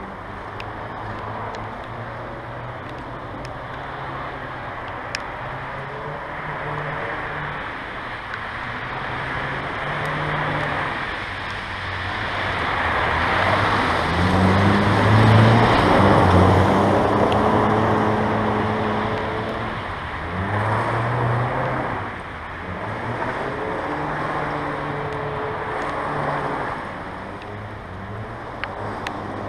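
1995 Mazda Miata's 1.8-litre four-cylinder engine revving up and down as the car is thrown sideways on wet pavement, with a hiss of tyres and water spray that swells loudest around the middle.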